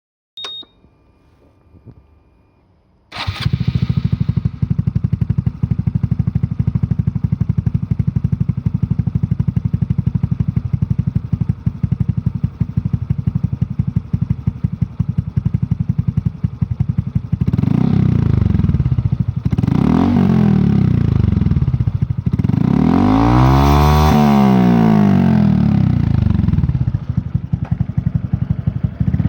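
Honda Super Cub C125's 125 cc single-cylinder four-stroke engine, through a cheap aftermarket muffler, starts about three seconds in after a brief click and tone. It idles steadily, then is blipped a few times and revved up and down once in one long sweep near the end. It revs up and drops back quickly, in a muffler the owner suspects flows too freely.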